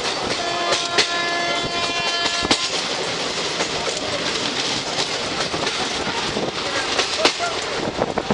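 Passenger train running, a steady rumble and rattle of the coaches with a few sharp clacks from the wheels and couplings. Near the start, a horn sounds one steady note for about two seconds.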